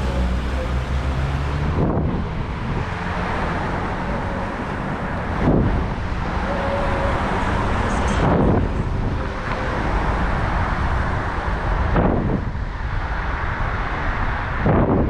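Wind buffeting the microphone during a bicycle ride, with street traffic going by. Five brief loud surges come a few seconds apart.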